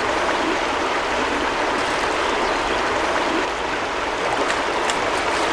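River water rushing steadily, a continuous even hiss of flowing current.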